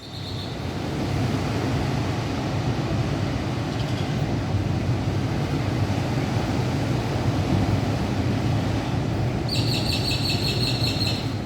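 Steady loud rushing outdoor noise, heavy in the low end, with birds chirping briefly near the start and a burst of high bird calls near the end.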